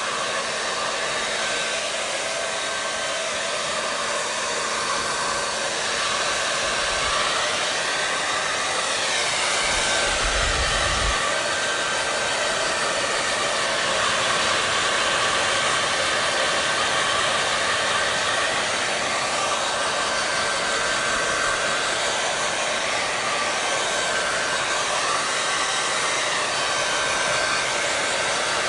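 Hair dryer blowing steadily, a continuous airy hiss with a faint motor whine that wavers slightly now and then.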